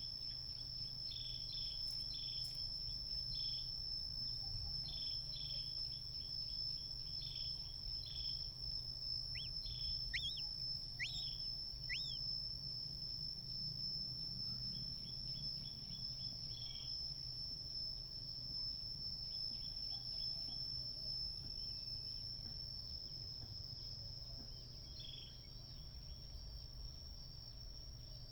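A steady high-pitched insect trill runs throughout, over a low background rumble. Short repeated chirps come and go, and a few quick upward-sweeping bird calls sound about a third of the way in.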